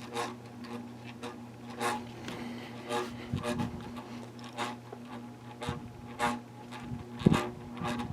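Bahama 52-inch hugger ceiling fan running on medium: a steady motor hum with a short rubbing scrape recurring roughly once a second. The owner says the fan's bearings are badly worn, with a lot of play.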